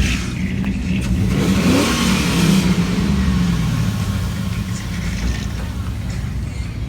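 Car engine running, revved briefly about two seconds in, then settling back to a steady idle.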